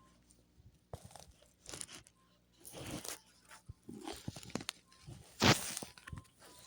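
Irregular crunching and rustling handling sounds in short bursts, the loudest about five and a half seconds in.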